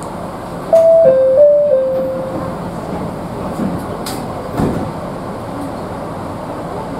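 Steady interior hum of a stopped Chichibu Railway 7500 series train, with a short four-note electronic chime about a second in. A sharp click and a dull thump follow a few seconds later.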